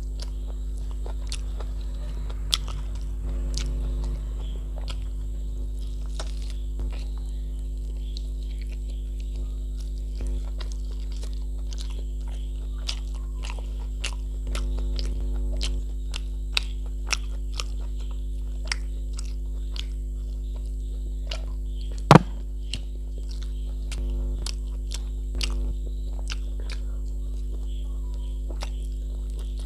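Close-miked chewing of rice and mutton curry eaten by hand: many short, wet mouth clicks scattered irregularly, with one sharp louder click about 22 seconds in. A steady electrical hum runs underneath.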